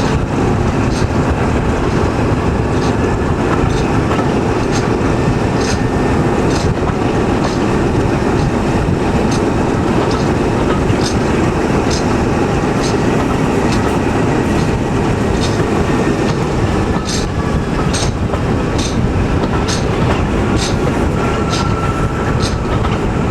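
Passenger coach running along jointed track, the wheels clicking over rail joints about once a second over a steady rumble, with a brief faint squeal of wheels near the end.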